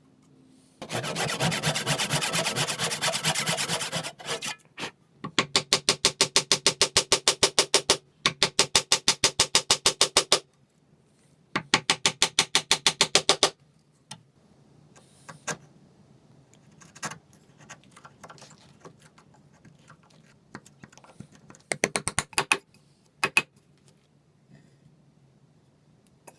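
A hand tool working wood in rapid back-and-forth strokes, about six a second, in a dense first bout and then three rhythmic bouts with short pauses between, followed by scattered light taps and knocks.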